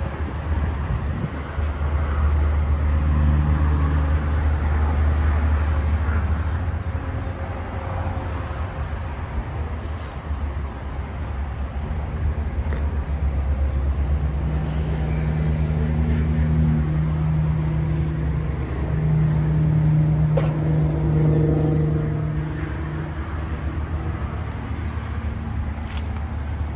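Vehicle engine and traffic noise over a steady low rumble, with a pitched engine hum swelling and fading in the middle.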